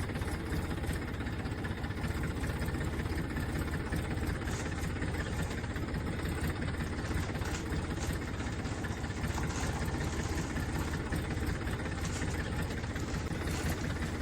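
Tractor engine running steadily at an even pace, with most of its weight in the low end and no revving.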